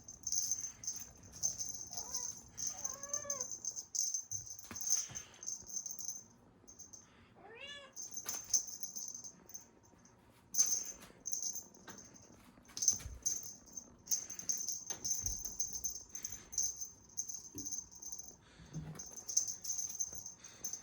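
A cat meows three short times in the first eight seconds over the on-and-off high rattling of a cat toy being shaken in play.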